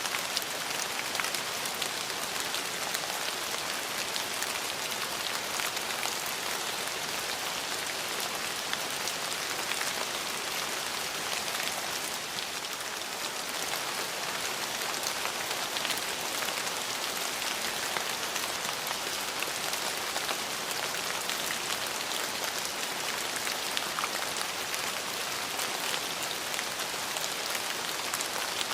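Steady rain falling, dense patter of drops on surfaces with fine individual drip ticks, with a slight lull about halfway through.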